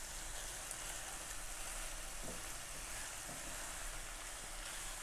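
Diced chicken and onion sizzling steadily as they fry in oil in a non-stick pan, with a few soft scrapes and taps of a wooden spatula stirring them.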